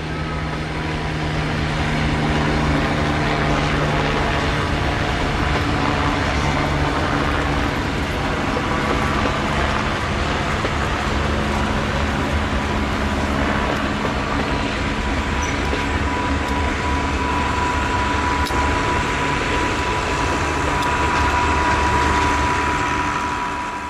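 Diesel-hauled heritage passenger train's carriages rolling past on the rails with a steady rumble. A thin, steady whine from the wheels on the rails grows louder in the second half.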